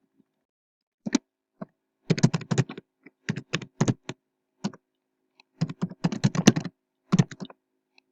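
Typing on a computer keyboard in irregular bursts of quick key clicks with short pauses between, as terminal commands are entered.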